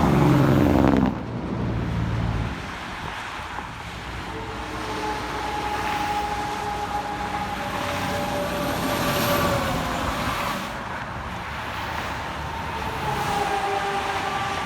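Highway traffic passing by. A vehicle goes by close and loud in the first second, its engine note dropping in pitch as it passes. Steady road noise follows, with a drawn-out whine from passing tyres and engines.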